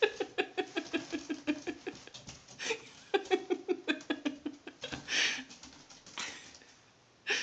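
A cat's claws scratching and gripping a carpet-covered wooden post as it climbs: two quick runs of scratches, about seven a second, followed by a few single scrapes.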